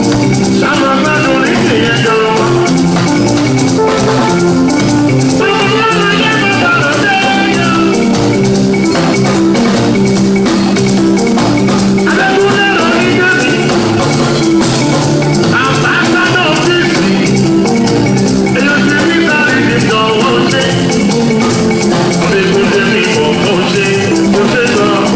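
Live band playing music, with a melodic lead in short phrases every few seconds over a steady bass line.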